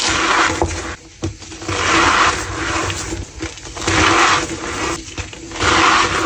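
A soft block of gym chalk being squeezed by hand again and again, each squeeze a squeaky, crunchy compression lasting under a second, like stepping on snow.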